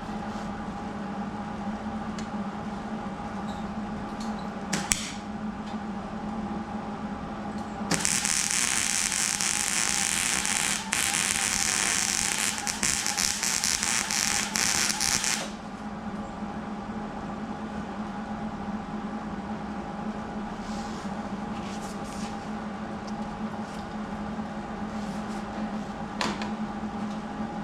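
A welding arc crackling and hissing steadily for about seven seconds, starting around eight seconds in and cutting off abruptly, a single weld bead run on the steel table. A steady low hum runs underneath throughout.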